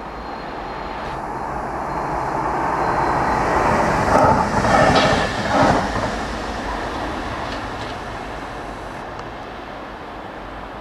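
Electric commuter train passing by: the noise of its wheels on the rails builds up, peaks about halfway with a few sharp clacks, then fades away as it recedes.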